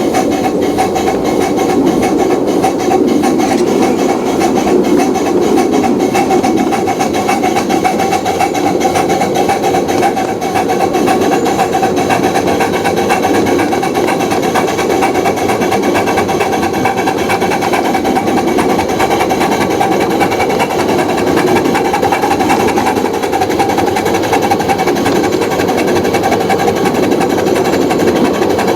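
Model train running steadily on the layout: a small electric motor's fast buzzing hum over the rapid rattle of running gear.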